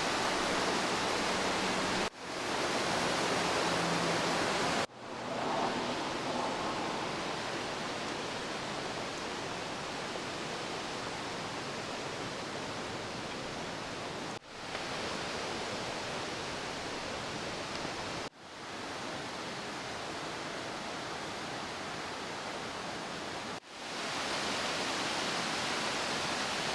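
Steady rush of running water, a mountain stream or waterfall. It cuts out abruptly five times and comes back within about a second each time.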